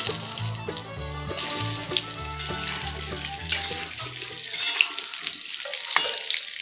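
Potatoes frying in hot oil, a steady sizzle. Background music with a low bass line plays under it and stops about two-thirds of the way through.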